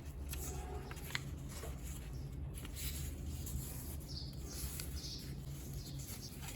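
A sheet of origami paper rustling and being creased as it is folded by hand: short irregular scrapes and ticks over a steady low hum.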